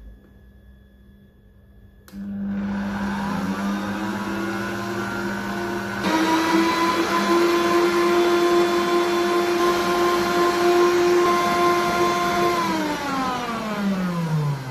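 Electric stand mixer whisking eggs and sugar until pale and doubled in volume. The motor starts about two seconds in, rising in pitch, steps up to a higher speed about six seconds in and runs steady, then winds down and stops near the end.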